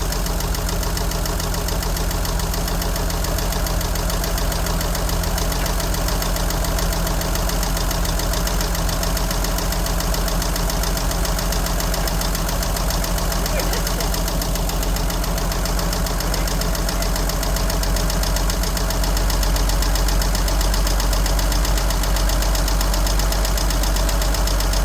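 1963 Jeep Gladiator engine idling steadily with a fast, even ticking that the owner has not yet traced to its cause. The engine gets slightly louder about three-quarters of the way through.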